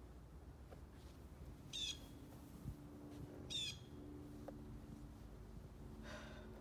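A bird calling: two short matching calls about a second and a half apart, then a fainter, lower call near the end. A dull low thump falls between the first two calls, over a steady low hum.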